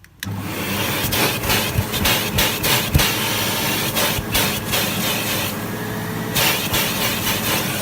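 Vacuum cleaner switched on about a quarter second in and running loudly and steadily, its nozzle scraping and clicking as it works over a dusty filter.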